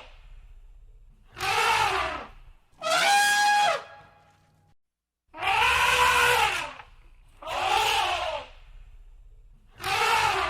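Elephant trumpeting: five loud trumpet blasts of about a second each, each rising then falling in pitch, with short gaps between them.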